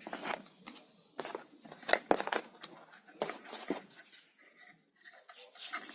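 Irregular small clicks and rustles of hands handling paper and plastic craft materials, the strongest about two seconds in.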